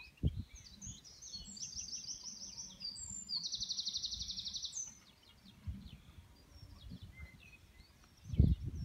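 Songbirds singing in the open countryside, with a fast trill of rapidly repeated high notes lasting about a second and a half, from about three and a half seconds in. A low thump just after the start and a louder burst of low thumps near the end.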